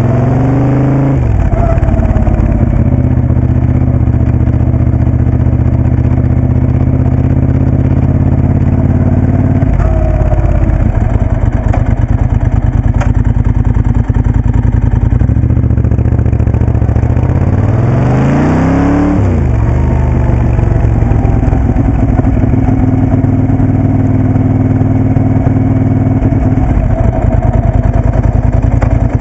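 Moto Guzzi Café Sport motorcycle engine running under way at a steady pace. Its pitch drops about a second in, and about two-thirds of the way through it climbs in a short rev before falling back.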